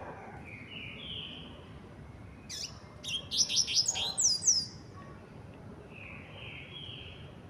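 Double-collared seedeater (coleiro) singing its tui-tui song: a loud, quick burst of sweeping whistled notes in the middle, with softer series of rising notes near the start and again near the end.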